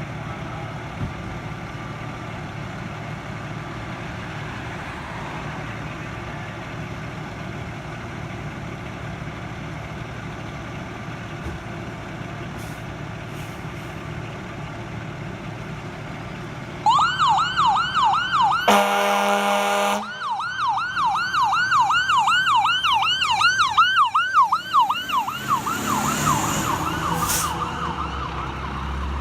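A heavy truck engine runs steadily, then about seventeen seconds in an emergency vehicle's electronic siren starts in a fast yelp, about two sweeps a second. Shortly after, a loud air horn blast of about a second breaks through, and the yelp goes on afterward.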